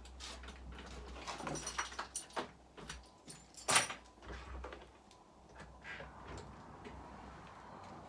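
Keys jangling and a door being unlocked and opened: a series of clicks and knocks, the loudest a sharp knock about four seconds in.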